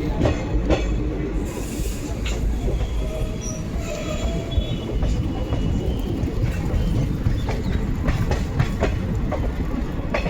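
Train running along the rails: a steady low rumble with irregular wheel clatter and a few brief high wheel squeals.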